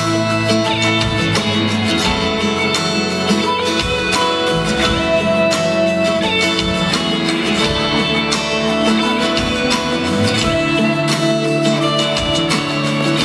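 Live band playing the instrumental break of a mid-tempo pop ballad, with guitar to the fore over sustained chords and a bass line.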